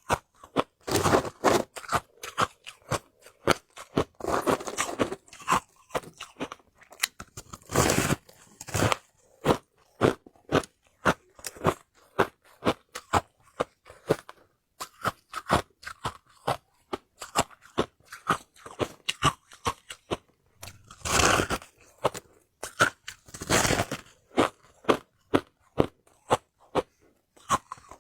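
A person biting and chewing hard ice close to the microphone: a continuous run of sharp crunches, with several louder, longer crunching bites spread through.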